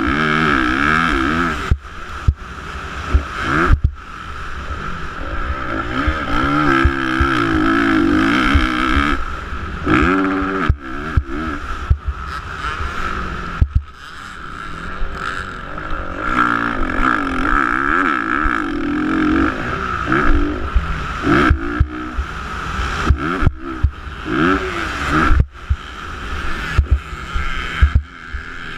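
Motocross bikes racing, their engines revving up and down over and over as they work the track, with frequent sudden brief dips and sharp knocks in the sound.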